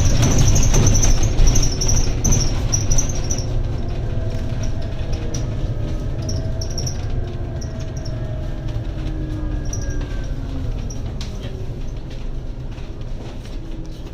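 Inside a Scania N280UD double-decker bus: its five-cylinder diesel and the road noise make a steady low rumble that fades as the bus slows, with faint whining tones sliding up and down in pitch midway and light high chirps in the first few seconds.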